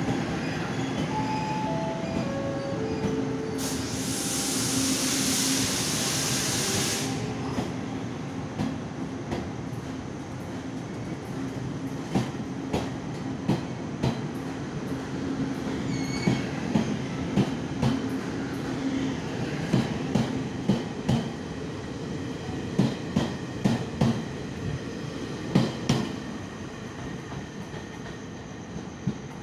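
Locomotive-hauled passenger train pulling out of a station: a short falling four-note chime, a loud hiss of air for about three seconds, then the coaches' wheels clacking over rail joints, often in pairs, as the train rolls past and away.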